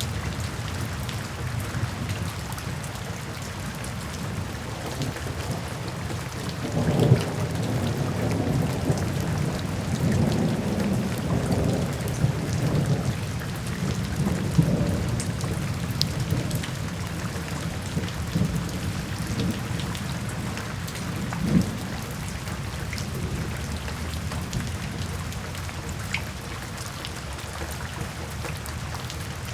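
Steady rain falling, with thunder rolling in low about seven seconds in, rumbling on for some fifteen seconds with a couple of louder peaks before it fades back to the rain alone.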